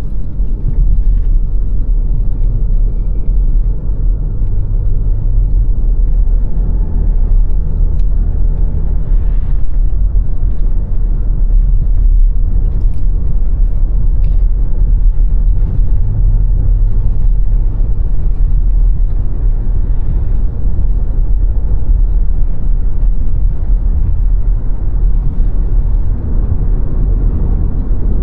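Car driving on the road: a steady low rumble of engine and tyre noise, with faint light ticks now and then.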